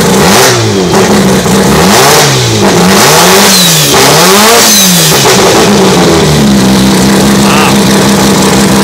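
Turbocharged Mazda rotary engine in an RX-8 race car revved about four times, pitch climbing and dropping with each rev, then settling back to a steady idle for the last couple of seconds.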